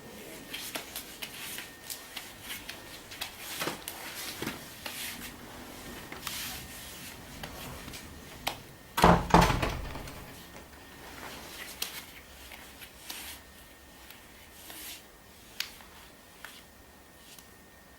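Scattered clicks, rustles and light knocks of objects being handled, with one loud thump about nine seconds in.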